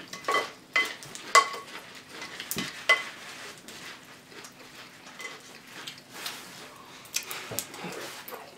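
Spoons clinking against cereal bowls, with a short ringing clink about four times in the first three seconds, then softer scraping and crunching of cereal being eaten.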